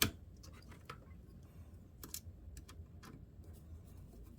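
Small clicks and taps of a Dell Chromebook laptop being reassembled by hand, with one sharper click at the very start and a scattering of lighter ticks after it.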